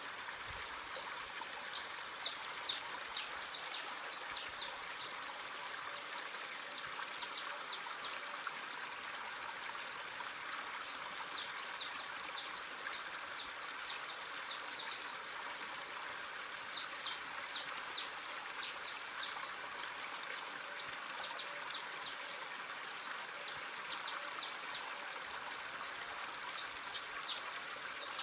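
Birds chirping: many short, high, quick chirps repeating continuously, over the steady rush of a running stream.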